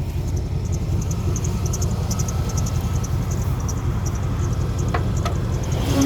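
An old pickup truck's 350 V8 idling steadily with a loud, deep exhaust rumble, which the owner puts down to the mufflers being off or the catalytic converters cut. Two sharp clicks come about five seconds in.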